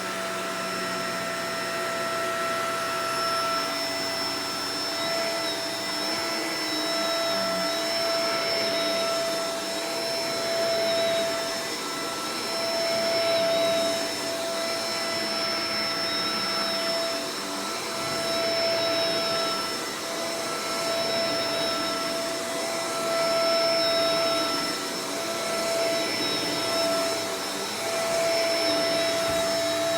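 Shark Professional Powered Lift-Away DLX (NV586) vacuum cleaner running: a steady rush of air with a few steady whining tones over it, its loudness rising and falling gently every few seconds.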